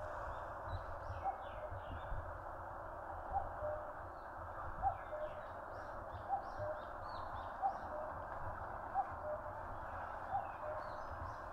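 Common cuckoo calling its two-note "cuck-oo", a higher note then a lower one, repeated about every second and a half. A steady hiss runs underneath, with small birds chirping faintly.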